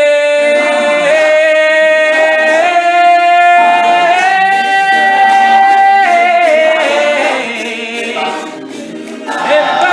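Men's a cappella group singing a held, wordless chord whose top voice steps up three times and sustains. It then drops back to quieter backing vocals, and the full group swells in again near the end.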